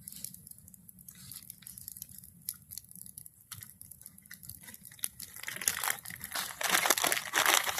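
Last year's dry material crackling in a small bonfire. There are scattered faint snaps at first, then from about five and a half seconds a dense crackle builds and grows loud near the end.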